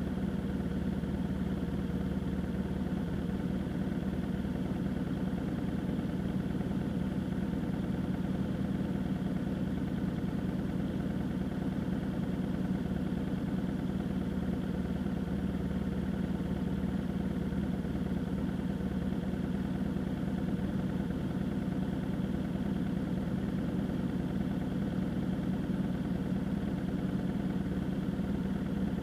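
A vehicle engine running at a steady, unchanging speed, a constant drone with a strong low hum.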